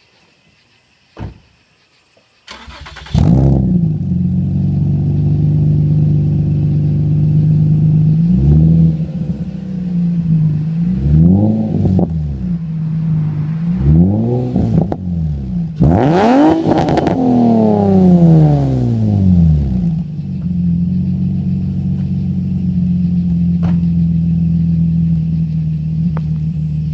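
Nissan 350Z's 3.5-litre V6, breathing through aftermarket headers, test pipes in place of the catalytic converters and an HKS-replica cat-back exhaust, starts about two and a half seconds in and settles into a steady idle. It is then revved in several short blips and one longer rev near the middle, falling back to idle each time. A single click comes about a second in, before the start.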